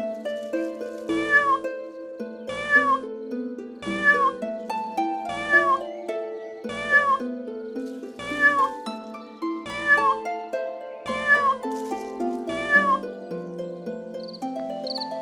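An animal call repeated nine times at an even pace, about one every second and a half, each call bending in pitch, over background music. Near the end a high-pitched chirping begins.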